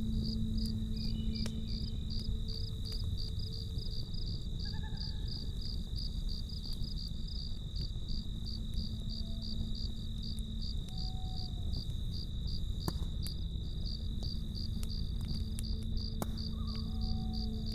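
Crickets chirping steadily, about three pulses a second, over a low rumble with a few sharp crackling pops from a campfire. A soft low hum fades out about two seconds in and comes back near the end, with a few short sliding notes in between.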